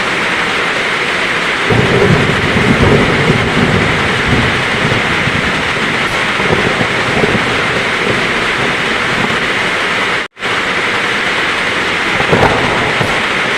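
Heavy rain falling steadily in a thunderstorm, with a low rumble of thunder about two seconds in that lasts a couple of seconds, and another short rumble near the end. The sound cuts out completely for a split second about ten seconds in.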